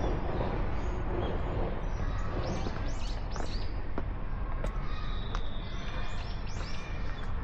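Small birds chirping: short, high, arching calls that come in clusters over a steady low background rumble.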